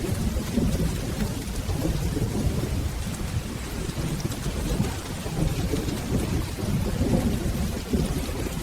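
Steady rain with low rolling thunder rumbling throughout.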